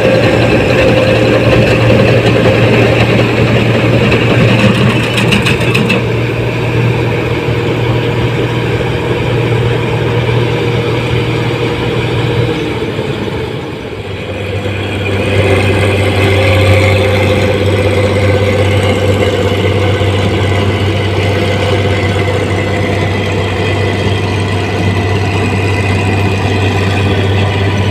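Combine harvester's diesel engine running steadily under load. About halfway through the hum dips briefly and comes back at a slightly lower pitch.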